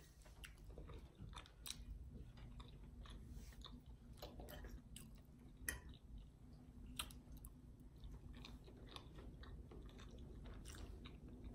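Faint close-up chewing of soft breakfast food, with scattered soft clicks.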